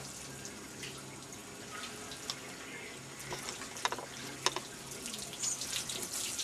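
Water from a garden hose spraying and splashing steadily on a car's bodywork, with a few sharp clicks a little past the middle.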